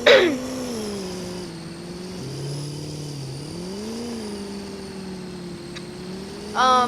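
Pickup truck engine running while driving, its pitch dropping and climbing a few times as the automatic transmission shifts through its gears. A loud, brief falling squeak right at the start and a short, high, loud chirp near the end stand out above the engine.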